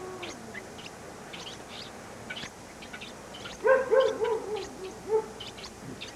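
An animal whining in short pitched yelping cries, a cluster of them about four seconds in and one more a second later, with faint high chirps scattered throughout.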